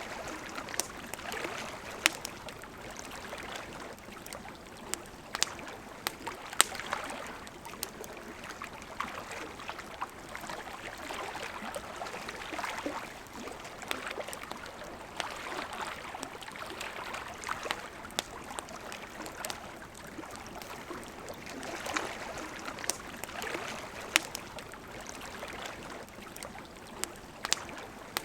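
River water running steadily, with a wood campfire crackling over it in sharp, irregular pops.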